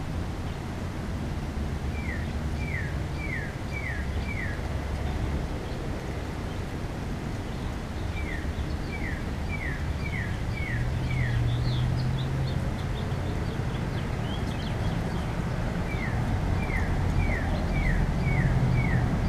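A songbird singing a phrase of five or six short, falling whistled notes, about three notes a second, heard three times. A steady low outdoor rumble runs underneath.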